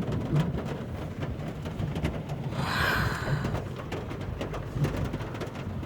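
Heavy rain falling on a car's roof and windows, heard from inside the car as a steady wash of many small ticks, with a brief louder whoosh about halfway through.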